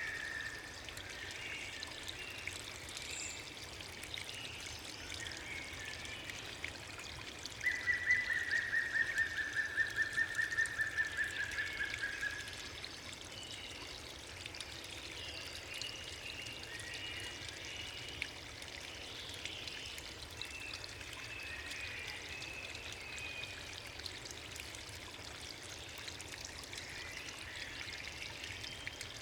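Rushing water, a steady even hiss, with faint scattered chirps over it. About eight seconds in, a high, rapidly pulsed trill, falling slightly in pitch, runs for about five seconds and is the loudest sound.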